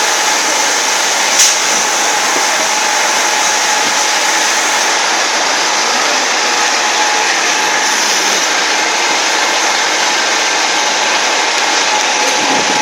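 VEG-25 end mill grinder running steadily: an even motor-and-wheel hiss with a faint steady hum, and one brief sharp tick about a second and a half in.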